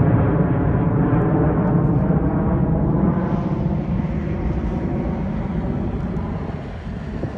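Passenger jet's engines at takeoff power as it climbs away, a deep rumble that slowly fades.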